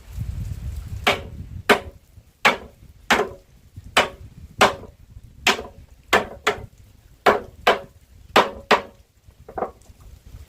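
Repeated sharp blows of a hand tool striking wood, about fourteen hits at an uneven pace of one or two a second, some in quick pairs, stopping near the end.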